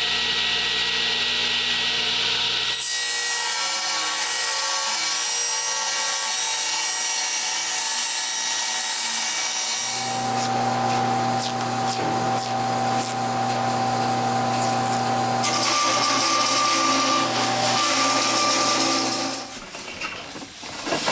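Power tool sawing, with rubbing and scraping; the sound changes abruptly a few times, about 3, 10 and 15 seconds in, and drops away near the end.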